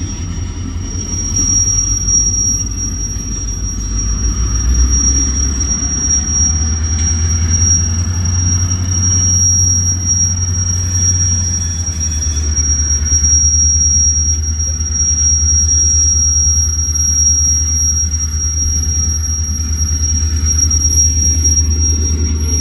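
Freight train rolling through a yard: a steady high-pitched wheel squeal over a low rumble that shifts pitch a couple of times.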